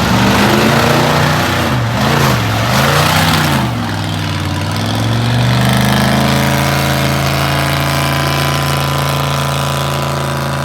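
Truck engine revving hard, its revs swinging up and down over a rushing noise for the first few seconds, then held at a steady high rev as it tries to power through a mud hole.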